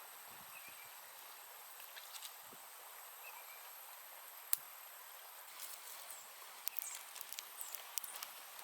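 Forest ambience with a steady high-pitched insect drone. There is one sharp click about halfway through, and a quick run of irregular clicks and ticks in the second half.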